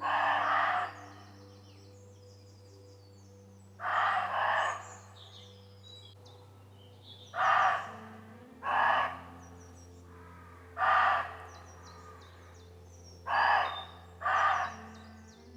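Roe deer barking: a series of rough, loud barks about half a second each, some in close pairs, coming every one to three seconds. Small birds chirp faintly in the background.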